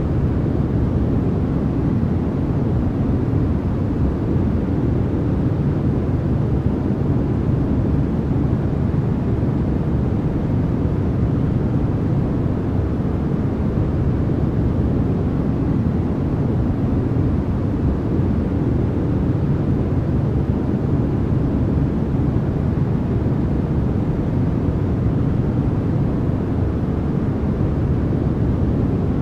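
Steady, unchanging white noise from a generated noise track, heavy in the low range so it sounds more like a deep rush than a bright hiss.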